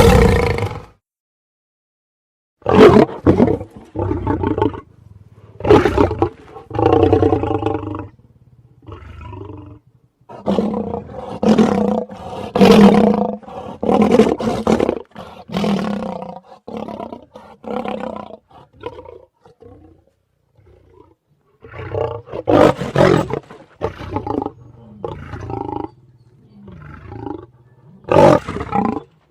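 Lion roaring: a string of loud, deep roars and shorter grunting calls, each lasting a second or two, with brief silent pauses between them.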